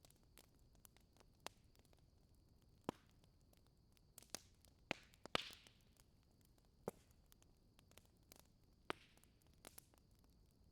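Wood fire crackling faintly in a fireplace: scattered small pops and snaps, with a louder pop and a brief hiss about five seconds in.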